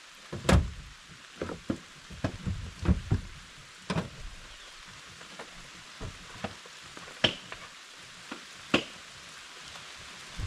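Steady rain hissing, with scattered knocks and clunks, about ten of them, most in the first half.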